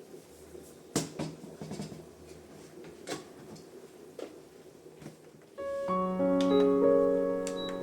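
A few light clicks and knocks of things being handled. Then soft background piano music starts about five and a half seconds in and becomes the loudest sound.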